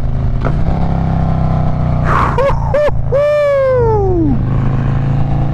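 Motorcycle engine revved hard: two quick throttle blips, then one longer rev whose pitch falls away as the revs drop back to a steady run.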